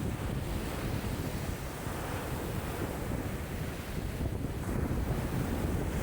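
Wind-driven lake waves washing and breaking, with strong wind buffeting the microphone in a steady, low rumble.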